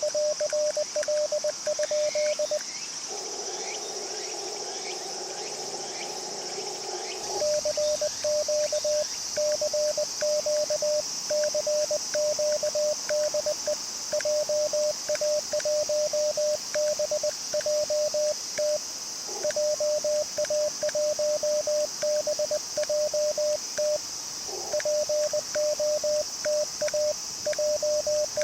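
Morse code being sent as a steady, single-pitched transceiver sidetone keyed on and off, an amateur radio operator calling CQ in CW, with a few seconds of band hiss from the receiver between transmissions. A steady high insect chorus runs underneath.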